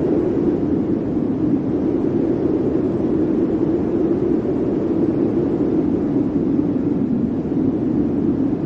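Blizzard wind blowing steadily, a dense rushing noise with a low hollow howl that drifts slowly in pitch.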